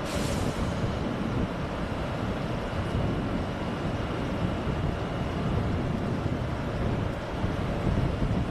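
Train rumbling steadily along the track, with a short hiss right at the start.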